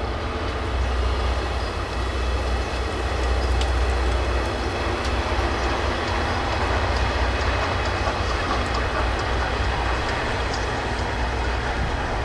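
A passenger train hauled by the 8620-class steam locomotive 58654 running by on the rails. Its wheels make a steady low rumble with faint scattered clicks.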